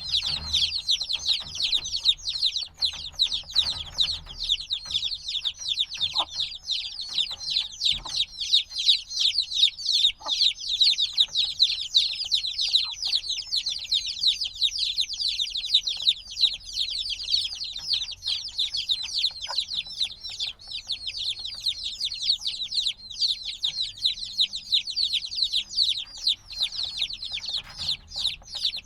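A brood of chicks a few days old peeping nonstop: many overlapping short, high-pitched peeps with no pause, the noisy calling of chicks that still need their mother's warmth.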